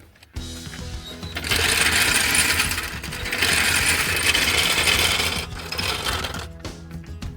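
Background music with a loud, harsh burst of metalworking noise on the exhaust pipe. The noise lasts about four seconds, with a brief dip in the middle.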